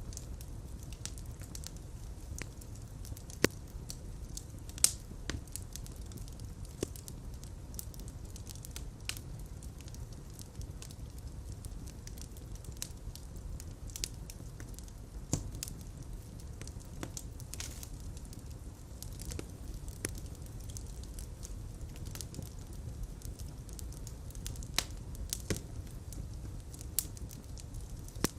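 Fireplace fire crackling over a steady low rumble of flames, with irregular sharp pops, two louder ones a few seconds in.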